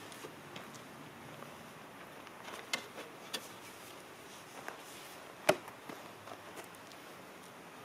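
A few light knocks and taps of wood on wood, with one sharper knock about five and a half seconds in, while logs are being readied for splitting.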